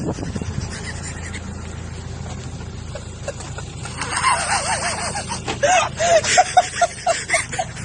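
Steady low engine hum. From about halfway, and again near the end, it is joined by quick runs of short, pitched, voice-like calls, several a second.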